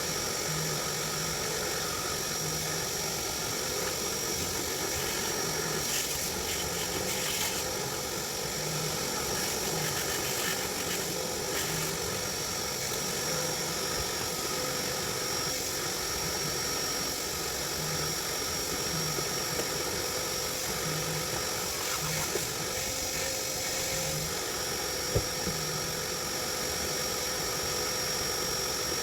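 A motor starts up with a short rising whine and then runs steadily, a constant mechanical whine over a hum, with one sharp click near the end.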